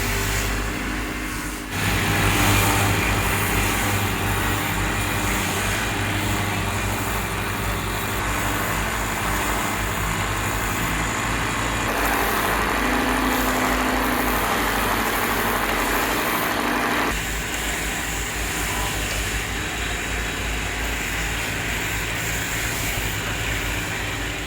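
Woodworking machinery running steadily: a motor's hum under dense machine noise. The sound changes abruptly about two seconds in and again past the middle.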